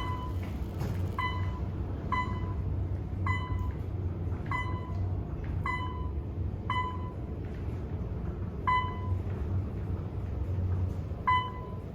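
Elevator car running, with a steady low rumble of travel. A short ding sounds about once a second, then twice more at longer gaps near the end, as from a chime at each floor passed.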